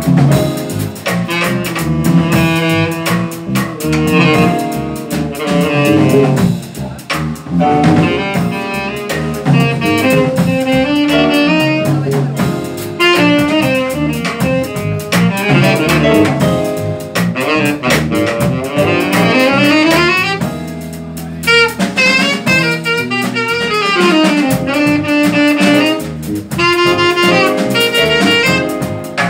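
Jazz quartet playing live: saxophone over piano, bass and drums.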